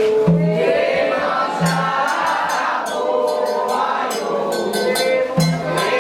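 Group singing of a Candomblé chant for Xangô, with percussion keeping a steady beat and a few deep drum strokes.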